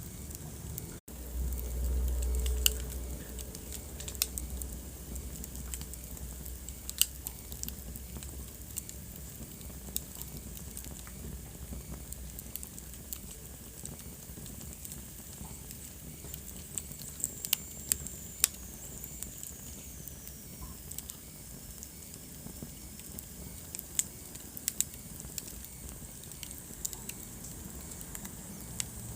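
Wood fire burning in a fireplace, crackling with scattered sharp pops over a steady hiss. A brief low rumble comes about two seconds in, and a faint high whistle slowly falls in pitch about two-thirds of the way through.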